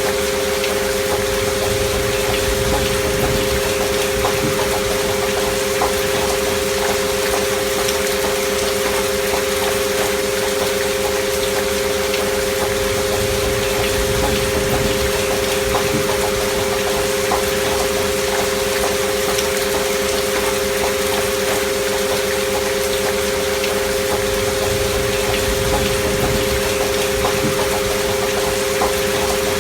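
Two steady pure sine tones, among them the track's 528 Hz frequency, held unchanging over a recording of gentle rain falling.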